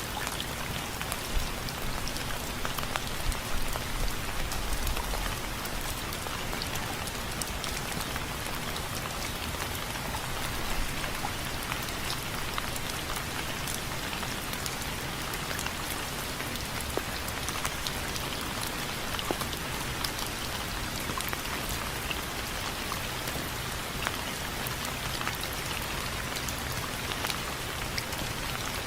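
Steady rain with many individual drops tapping on window frames, with a brief low rumble swelling up about four seconds in.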